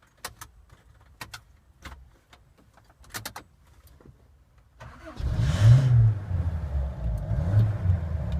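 A few clicks and knocks, then about five seconds in the 1992 Vauxhall Brava's 2.3-litre petrol engine starts at once, revs briefly and settles into a slightly wavering idle.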